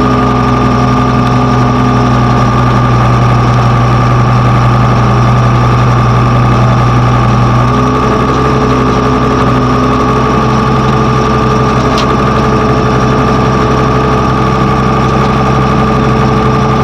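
Diesel engine of a heavy construction machine running steadily, with a slight change in its note about eight seconds in.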